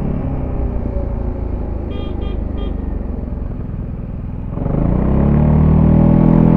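Zontes E350 scooter's single-cylinder engine with stock exhaust, heard on board: it runs at low revs with three short high beeps about two seconds in, then the throttle opens about four and a half seconds in and the engine rises in pitch and gets louder as it accelerates.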